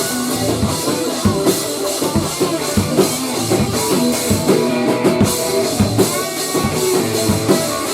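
Rock band playing an instrumental passage, with drum kit and guitar.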